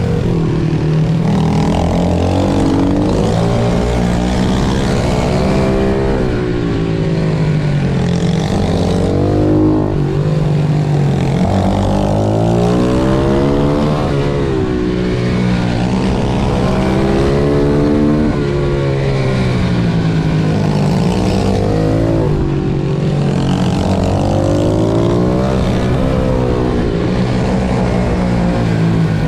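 Small pit-bike engines at racing pace, revving up and falling back again and again, about every one to three seconds, as the bike accelerates out of corners and shuts off into them, over a steadier engine drone.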